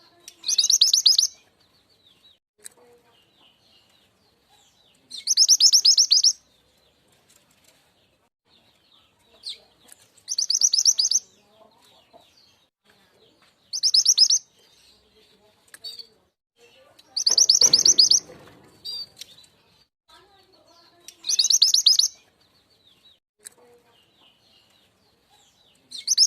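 Lure recording of the mantenan gunung (truntung weru) call: a high, rapid, chattering trill about a second long, repeated six times at even intervals of roughly four seconds, with faint small chirps between the calls.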